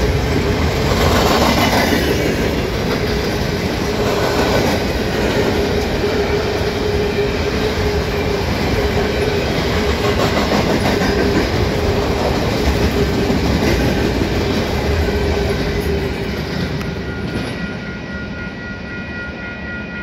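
Freight train of covered grain hopper cars rolling past, steel wheels clattering on the rails with a steady whining tone. The sound fades as the last cars go by near the end.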